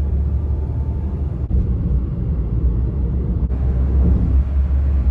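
Steady low road and engine rumble of a car, heard from inside the cabin while driving.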